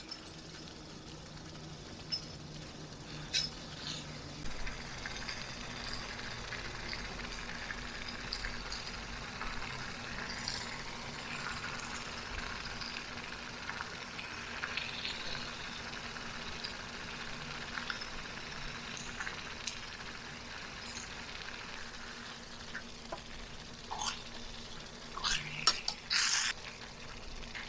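Chicken pieces sizzling as they fry in a thick onion-tomato masala gravy in a pot, with scattered clinks and scrapes of a spoon against the pot, several close together near the end.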